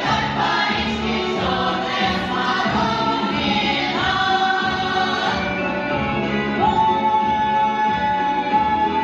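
Choir singing with musical accompaniment, ending on one long held note.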